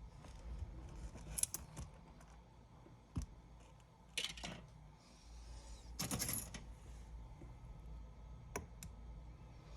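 Small hand tools and parts being handled during an iPad teardown: a few faint, scattered clicks and short scrapes, like metal tools set down and picked up on a hard surface.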